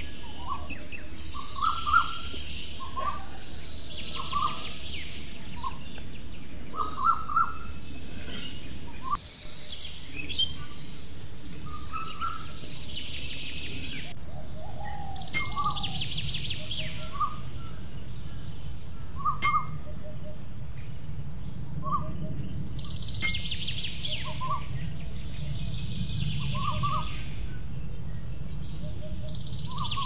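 Birds chirping in short, repeated calls over a steady hiss of background noise, briefly cut off about nine seconds in.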